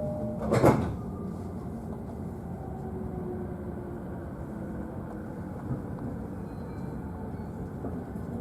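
Sliding doors of an E531-series commuter train shutting with one short, loud thud about half a second in, heard from inside the car. After that comes the steady noise of the stopped or just-starting train, with a faint, slowly changing tone.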